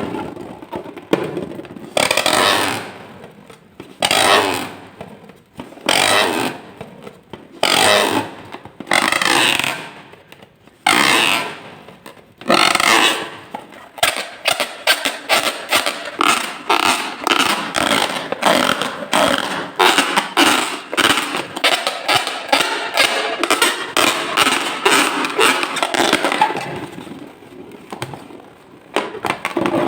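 Slime being squished and worked by hand, giving wet squelching sounds. It starts as separate squelches every second or two, then from about the middle turns into a fast run of small crackles and pops before easing off near the end.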